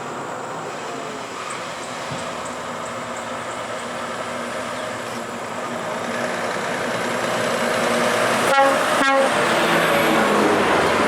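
Heavy truck approaching and growing louder, with a short air-horn blast about eight and a half seconds in.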